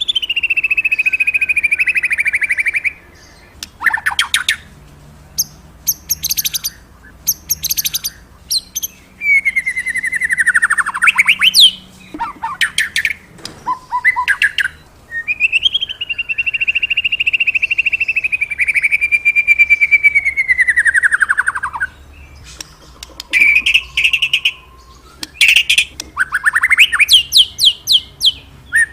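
A white-rumped shama (murai batu) singing. Long, rapid, trilled phrases alternate with short, high, chattering bursts, separated by brief pauses.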